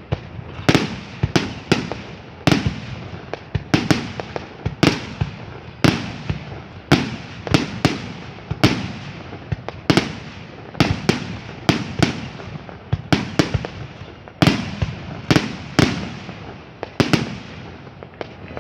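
Aerial fireworks display: a steady barrage of shell bursts, one to three sharp bangs a second, each with a rolling echo.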